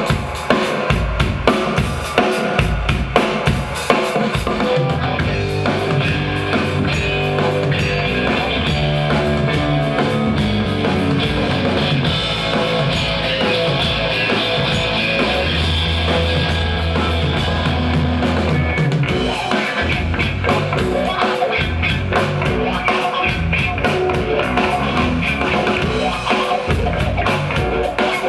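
Live rock band playing an instrumental intro: a drum kit alone at first, then bass and electric guitar join about four seconds in and the full band plays on.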